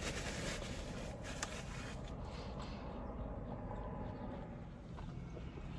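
A person chewing a mouthful of burger close to the microphone, with wet mouth sounds and small clicks, dying down somewhat about halfway through.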